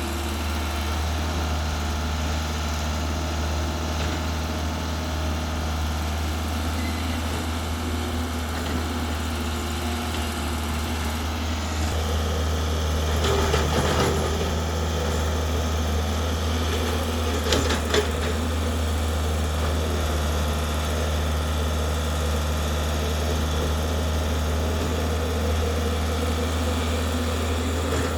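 Excavator's diesel engine running steadily, with a few short knocks about halfway through and a couple more a few seconds later.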